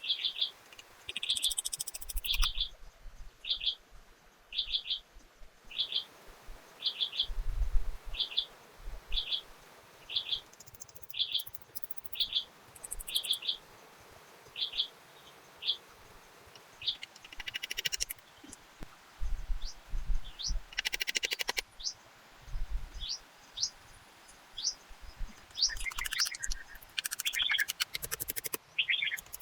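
Wild birds singing in tropical forest. One bird repeats a short double note about once a second through the first half, then other birds join with quick rising whistles and busier calls near the end. Occasional low thumps sound under the song.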